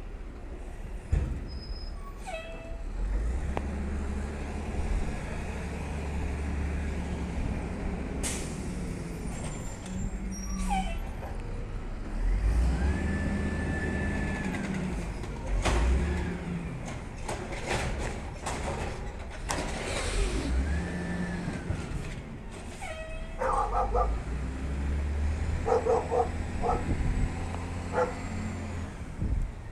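Garbage truck at work: its engine revving and idling, with a held hydraulic whine rising and falling twice, sharp knocks and bangs, and air-brake hisses. A dog barks several times in the second half.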